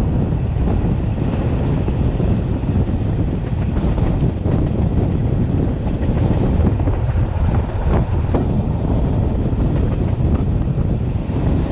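Matterhorn Gotthard Bahn regional train running, heard from on board: a steady low rumble of wheels on track with wind buffeting the microphone. Two short sharp clicks come about eight seconds in.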